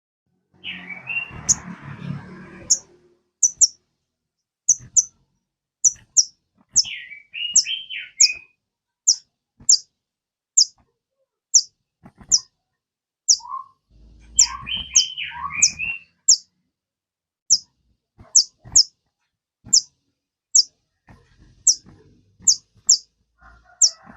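Sogon bird call recording used as a lure: short, sharp, very high 'tsit' notes repeated about once or twice a second, broken three times by a brief twittering phrase of lower, warbling notes.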